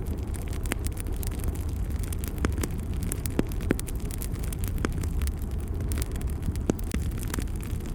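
Wood fire burning in a fireplace: a steady low rumble of flame with frequent sharp crackles and pops, a few of them louder.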